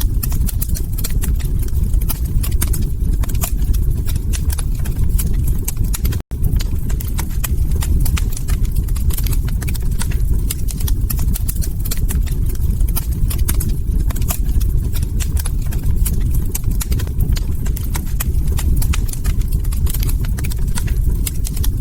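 Log fire crackling: a dense run of irregular sharp pops and snaps over a steady low rumble of burning wood. The sound cuts out for an instant about six seconds in.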